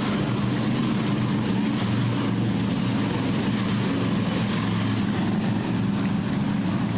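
Several Harley-Davidson Police Special motorcycles with V-twin engines running together at low riding speed, a steady engine sound from a team of bikes riding in formation.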